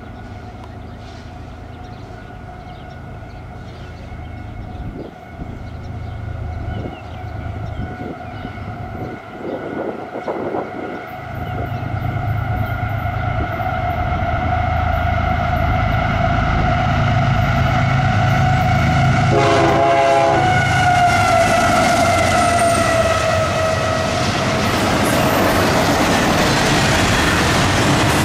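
Diesel freight locomotives leading a double-stack container train approach and pass. Their engine rumble and a steady whine grow louder, and the whine drops in pitch as the locomotives go by. Then comes the rhythmic clatter of wheels over the rail joints and the rising rush of the container cars rolling past.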